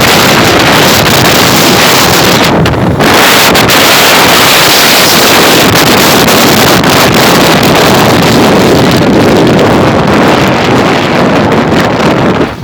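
Loud, steady wind noise buffeting the microphone on a motorcycle moving at speed; it drops away suddenly near the end.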